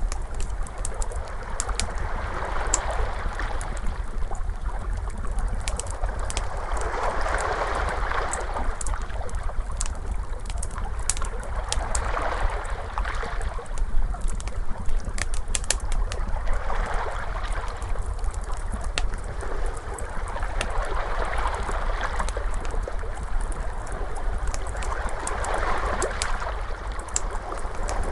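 Ocean waves washing in and ebbing, a fresh swell every four to five seconds, over a steady low rumble, with the scattered snaps and pops of a crackling wood fire.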